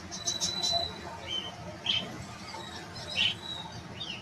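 Small caged birds giving short, high chirps and squawks, several calls in a few seconds, the loudest about three seconds in, over a low background hum.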